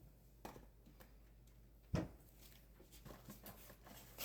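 Quiet kitchen handling: a soft knock about half a second in, a sharper knock about two seconds in, and a few faint small clicks.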